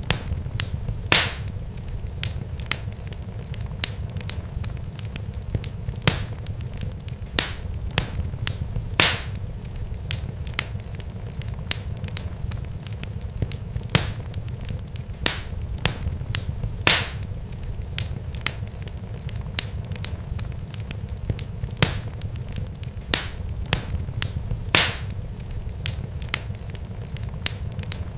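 Continuous irregular crackling: sharp snaps and pops at uneven intervals, four of them noticeably louder, over a steady low rumble.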